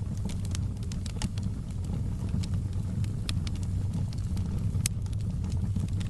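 Fire burning in a fireplace, crackling and popping irregularly several times a second over a steady low rumble.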